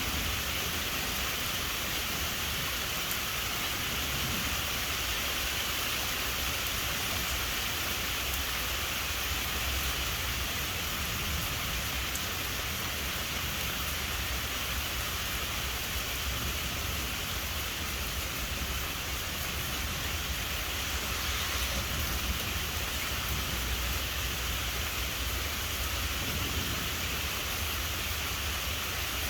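Steady rain falling, with a low rumble of distant thunder underneath that swells and fades.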